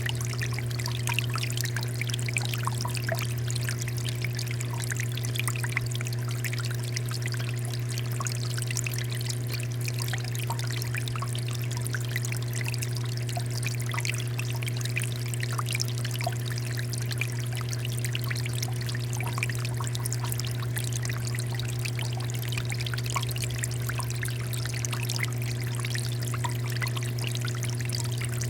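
Water fountain flowing and splashing steadily, with a constant patter of small droplets. Under it runs a steady low hum.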